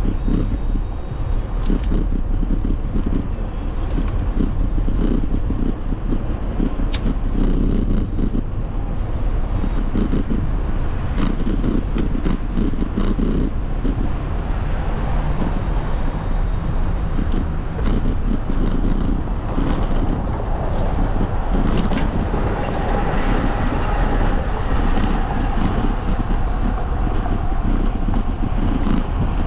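Wind buffeting the microphone over a steady low road rumble while riding a bike, with occasional faint clicks.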